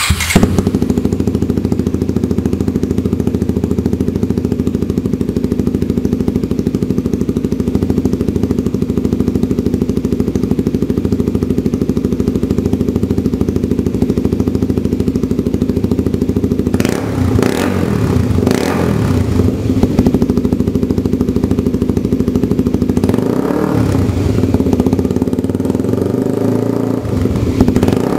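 Kawasaki Z250SL's single-cylinder engine firing up suddenly and idling through a Coffman exhaust tip with the baffle removed, then blipped up and down in several short revs in the last ten seconds.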